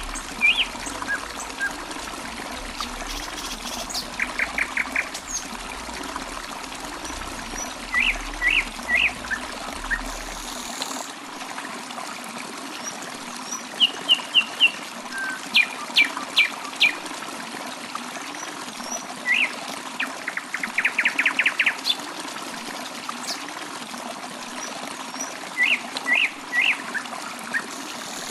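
Water trickling steadily, like a small stream, with songbirds calling over it: short chirps in groups of two to four, and twice a rapid trill.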